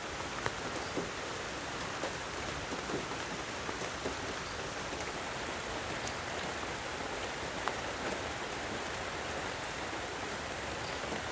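Steady rain falling on the leaves of a forest canopy: a continuous hiss with occasional louder single drops close by.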